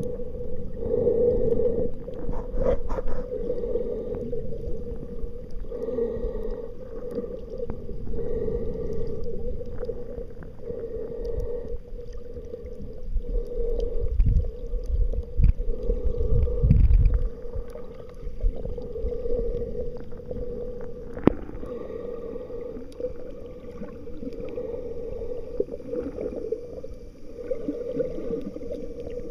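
Kayak under way on open water: a steady hum that swells and fades every second or two, with wind buffeting the microphone about halfway through.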